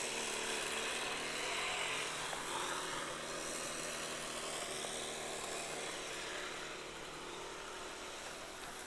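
A motor vehicle's engine running, loudest in the first couple of seconds and then slowly fading away.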